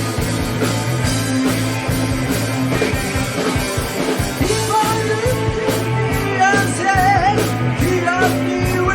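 Live hard rock band playing: distorted electric guitar, bass and drums keeping a steady driving beat, with a wavering high melody line coming in about halfway through.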